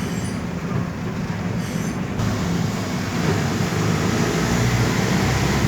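Steady rumble of a moving vehicle, engine and road noise together, getting a little louder about halfway through.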